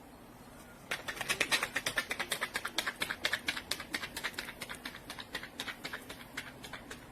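A fast, even run of sharp clicks, about six a second, starting about a second in and slowly growing fainter.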